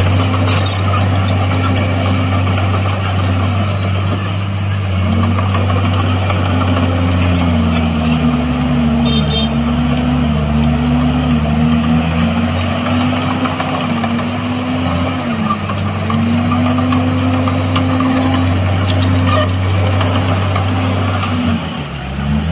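Bulldozer's diesel engine working under load, its pitch sagging and recovering again and again as the load changes, with a deeper sag near the end.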